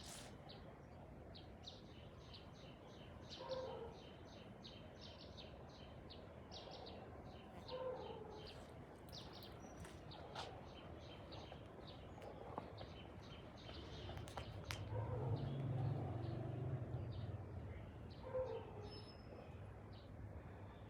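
Birds chirping continuously in quick short notes, with a lower call repeating every few seconds. A low rumble swells and fades in the later part.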